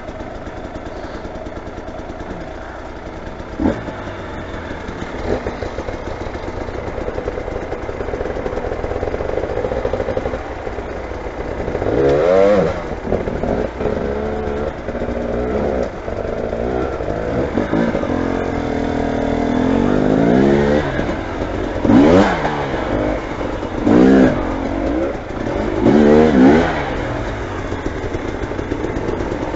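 Motorcycle engine running steadily, then revved hard several times in the second half, each rev rising and falling sharply in pitch.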